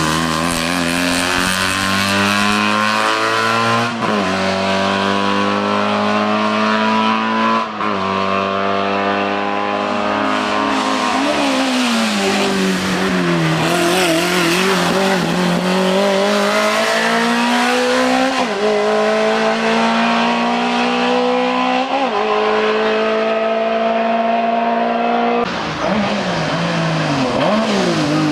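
A race car engine pulls hard at high revs through the gears. The pitch climbs and drops sharply at each upshift, about five times. Around the middle the revs fall and waver as the car slows, then they climb again.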